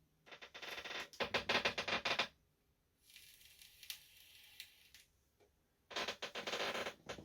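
Trading cards and booster-pack packaging being handled: two bursts of rapid crackling and rustling, one in the first two seconds and one near the end, with a softer hiss in between.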